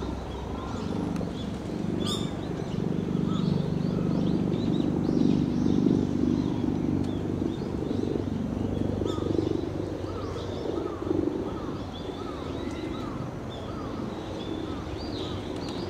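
Outdoor ambience with a steady low rumble and many short bird chirps, mostly quick downward notes repeated in runs. A single sharp click about two seconds in.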